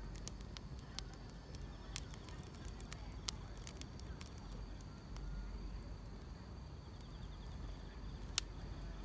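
Wood fire crackling, with irregular sharp pops, the loudest about eight seconds in, over a steady low rumble. A faint, steady chirring of field insects runs underneath.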